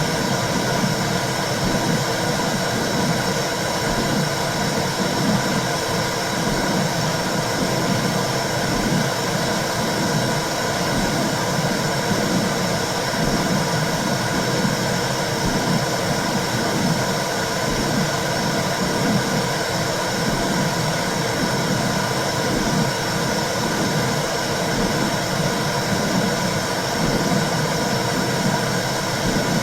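Womb sound: a steady low whooshing noise with a slow, even pulse in the low range, like blood flow and a heartbeat heard from inside the womb.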